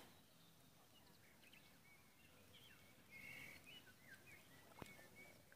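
Near silence: faint outdoor quiet with a few faint, short, high bird chirps scattered through the middle.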